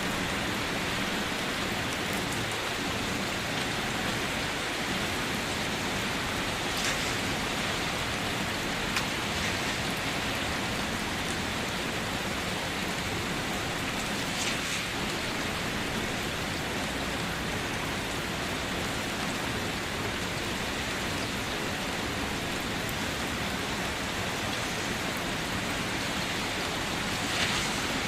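Steady rain falling, an even hiss with a few louder drops or splashes standing out now and then.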